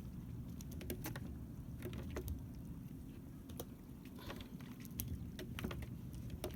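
Steady low rumble on a small fishing boat at sea, with scattered light clicks and taps every half second or so.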